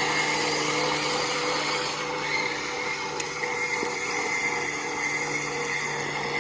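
A small motor running steadily, a constant whine over an even hiss.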